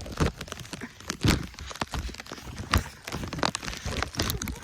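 Irregular thuds and knocks over a low noisy background, with the strongest a little over a second in and just before three seconds in.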